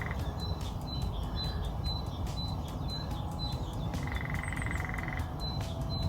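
Small woodland birds calling: a high note repeated about twice a second, with a buzzy, rapid trill lasting just over a second about four seconds in.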